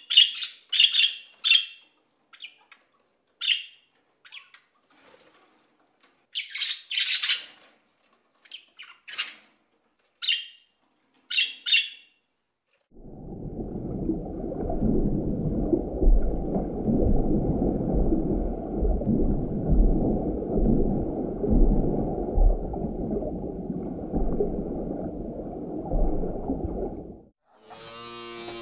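Toucan giving a series of short, sharp calls, about one a second at first and then sparser, for roughly twelve seconds. Then a steady low rushing noise runs for about fourteen seconds and cuts off suddenly. Near the end a cow starts mooing.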